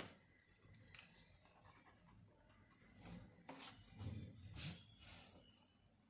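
Faint strokes across paper, with a click about a second in and a few louder swishes between about three and five seconds.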